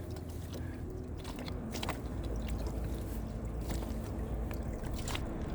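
Light clicks and scrapes of Dungeness crabs and gear being handled and measured on a kayak, over a steady low rumble of wind and water on the microphone.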